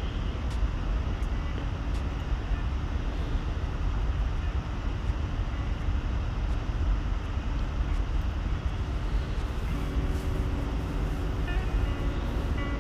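Steady low rumbling background noise, with faint steady tones joining about ten seconds in.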